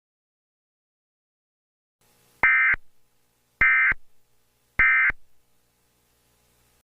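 Emergency Alert System end-of-message data bursts: three short, identical buzzy digital chirps about a second apart, the signal that closes an EAS alert.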